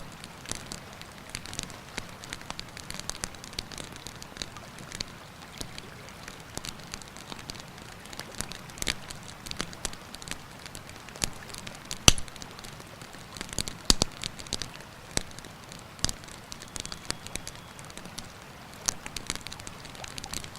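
Wood campfire crackling, with many small snaps and a few sharp pops, the loudest about halfway through and another a couple of seconds later, over a steady rush that fits the river.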